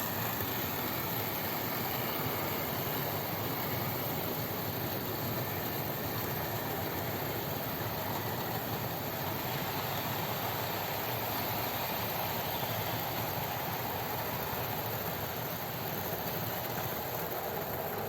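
OO gauge model locomotive running, a steady whirr of its small electric motor and wheels.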